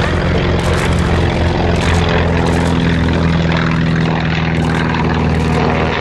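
Propeller-driven warbird's large radial piston engine running, a loud, steady low drone.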